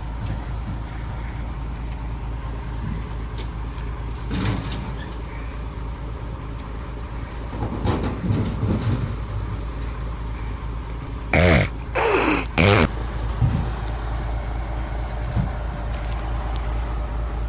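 Truck engine running with a steady low rumble while driving. About eleven seconds in come three short, loud blasts.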